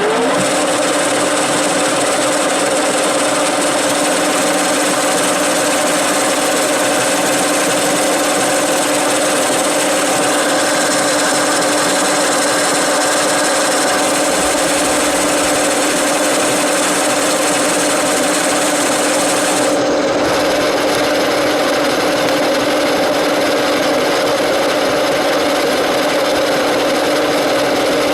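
Angle grinder grinding down the weld on a welded steel sprocket blank: a loud, steady grinding hiss over a constant motor whine, easing briefly about twenty seconds in.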